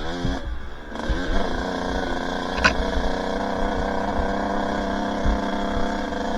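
Two-stroke dirt bike engine running under the rider, its pitch shifting up and down for about the first second, then holding a steady speed. A brief sharp click about two and a half seconds in.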